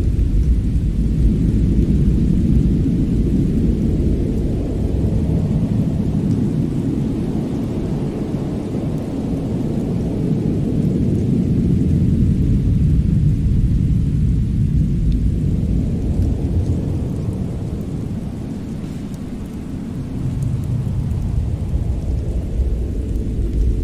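Deep rumbling ambience noise of a winter-storm soundscape, swelling and easing in slow waves every several seconds, dipping and then rising again near the end.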